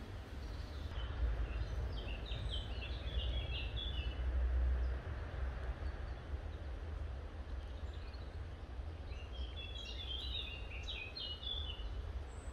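A songbird singing two phrases of quick, short notes, each about three seconds long: one near the start and one near the end. Under them runs a steady low rumble.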